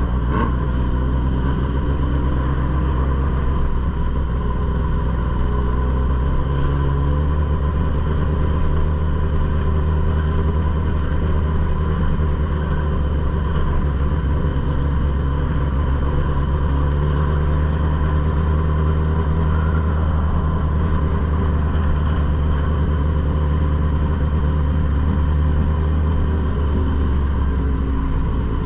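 Suzuki GSX-S1000 inline-four motorcycle engine running steadily at cruising speed, with wind and road noise. The engine note shifts slightly about seven seconds in, then holds steady again.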